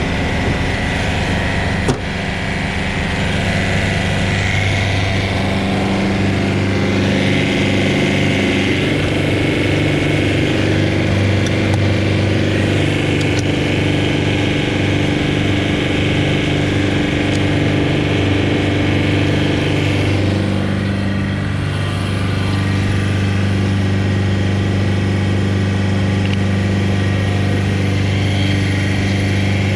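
Large engine running steadily, its pitch shifting slightly a third of the way in and again about two-thirds in.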